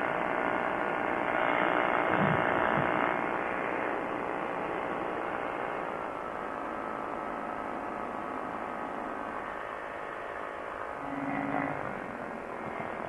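Quicksilver ultralight's engine running in cruising flight, a steady drone, louder a couple of seconds in. Its pitch drops slightly about six seconds in.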